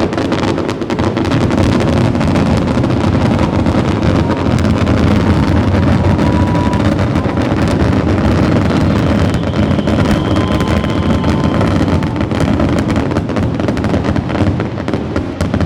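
Fireworks going off in a dense, continuous barrage of crackles and bangs, with faint whistles heard now and then.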